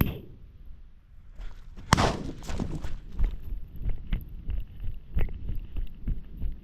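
Footsteps on rough ground, roughly two to three steps a second, with a sharper knock about two seconds in.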